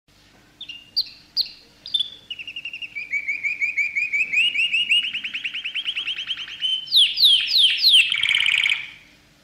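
A songbird singing: a few sharp high notes, then a long fast trill of repeated notes, ending in several quick downward-slurred notes and a short buzzy note.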